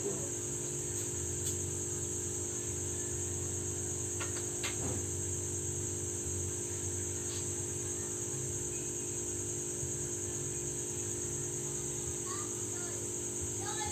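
Steady high-pitched trilling of crickets over a low, even hum, with a couple of faint clicks about four and a half seconds in.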